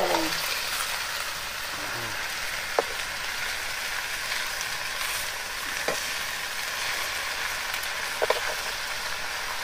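Leafy greens sizzling as they fry in a pan over a wood fire, stirred with a metal ladle; a few sharp clinks, about three seconds apart, stand out over the steady sizzle.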